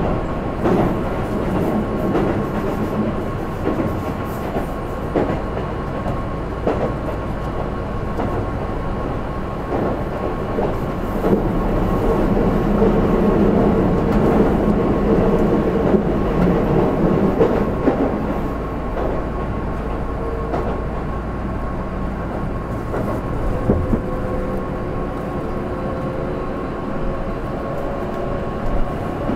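Keihan 8000 series electric train running at speed between stations, a steady rumble of wheels on rail with some clickety-clack. It grows louder for several seconds near the middle, and a faint whine rises slowly in pitch near the end.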